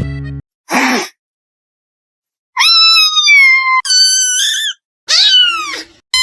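Kitten meowing repeatedly: a string of high-pitched, drawn-out mews, the first starting about halfway in, later ones falling in pitch at the end. A short scuffling noise comes about a second in.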